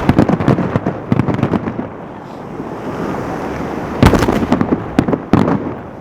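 Fireworks salute: aerial shells bursting with loud bangs, each followed by a rapid crackling that lasts a second or so. There are two such volleys, the second about four seconds in, with a further bang near its end.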